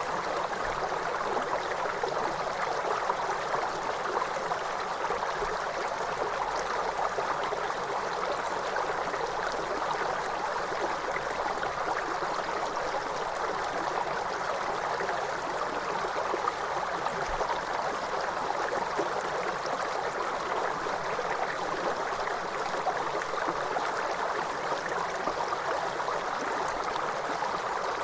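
Waterfall: a steady, unbroken rush of falling and splashing water, even in level with no separate splashes standing out.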